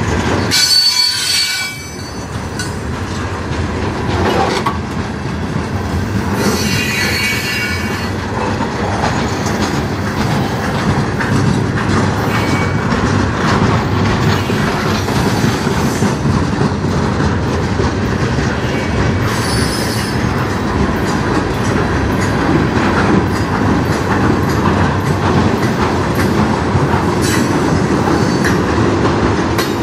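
Freight cars of a manifest train rolling past: a steady rumble and rattle of steel wheels on rail, with high-pitched wheel squeal about a second in, again around seven seconds, and once more around twenty seconds.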